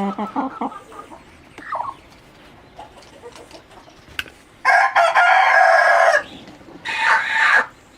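Rooster crowing: a long, loud crow about five seconds in, followed by a shorter second crow. A few soft clucks come near the start.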